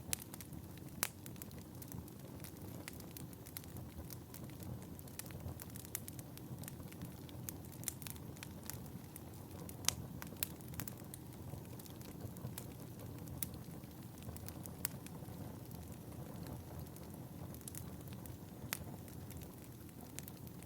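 Wood fire in a fireplace crackling: a steady low rumble of burning with irregular sharp pops and snaps, the loudest about a second in and again about halfway through.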